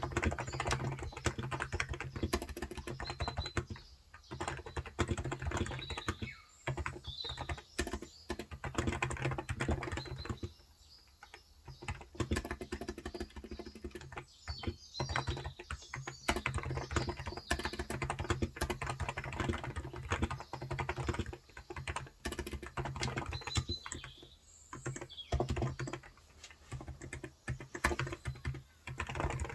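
Typing on a Cox Endeavor electro-capacitive (no-contact) 35 g tenkeyless keyboard: quick runs of soft key clacks broken by short pauses, the longest about ten to twelve seconds in.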